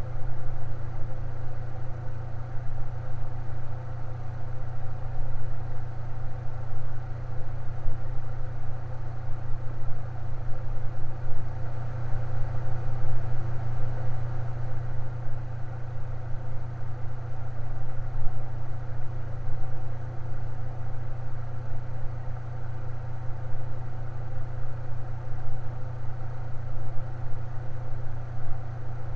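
Electric fan running steadily, a constant low hum with a few even tones above it.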